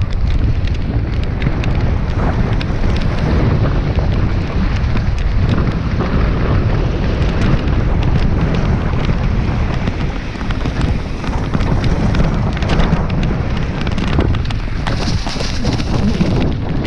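Mountain bike ridden fast on a dirt trail: heavy wind buffeting on the microphone over a low tyre rumble, with frequent sharp rattles and knocks from the bike over bumps.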